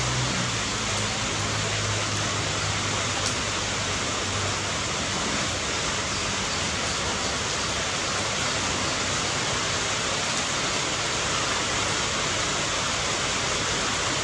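Steady rain, an even hiss. A low hum underneath fades away over the first few seconds, and there is one faint tick about three seconds in.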